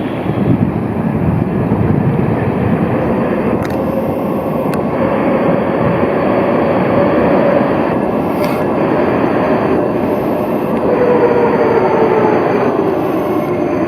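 Tram running past with a steady rumble and a whine whose pitch rises a little, then falls toward the end.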